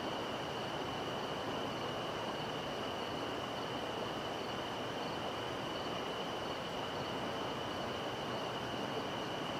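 River water flowing steadily, an even rushing wash, with a constant high-pitched insect trill above it on a summer night.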